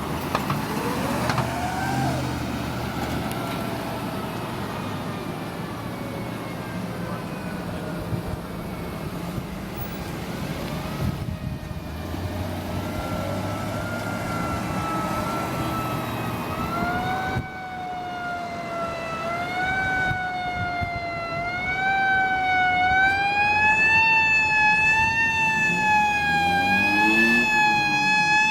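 Federal Q mechanical siren on a fire engine. It spins up near the start and winds down slowly, then wails in repeated rise-and-fall sweeps about every two seconds, growing louder as the truck approaches.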